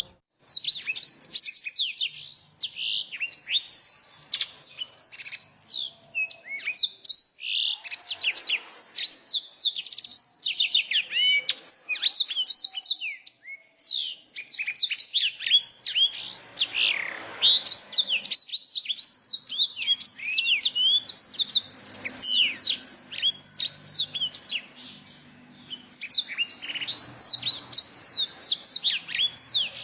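Blended song of small finch-like cage birds, black-throated canary, bar-winged prinia and yellow-fronted canary, singing together. It is a dense, fast run of high sweeping and warbling notes with trilled phrases, broken by short pauses.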